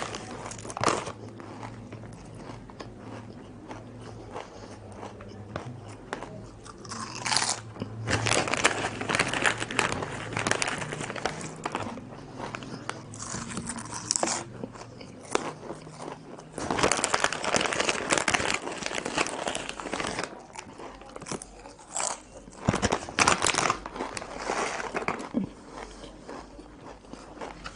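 Potato chips being bitten and chewed close up: crisp crunching in repeated bursts, with the loudest spells a little past the middle and again near the end.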